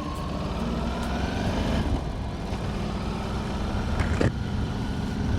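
A road vehicle's engine running, rising in pitch over the first couple of seconds as it accelerates, then holding steady. A short sharp click comes about four seconds in.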